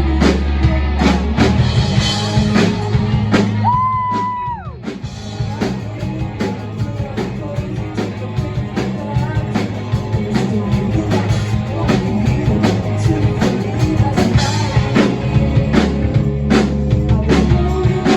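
Rock band music with a steady drum-kit beat, guitar and singing. About four seconds in, a single high note is held for about a second, then slides down.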